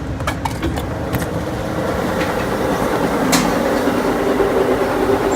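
Passenger train running, its steady rumble heard from inside the car and growing slowly louder. A few sharp clicks come in the first second or so, and one more a little past the middle.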